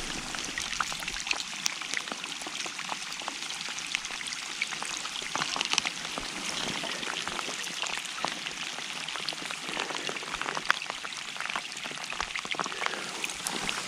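Water splashing and trickling, a steady patter of many small drips and splashes.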